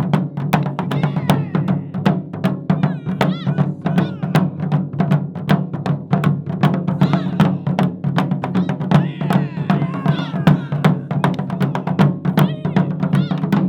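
Japanese taiko drum ensemble playing, with dense, rapid sharp strikes over a continuous deep booming resonance from the large drums.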